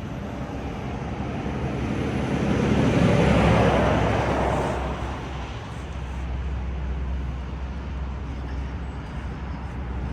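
A vehicle passes by: a rushing noise swells to its loudest about three to four seconds in, then fades, over a steady low rumble.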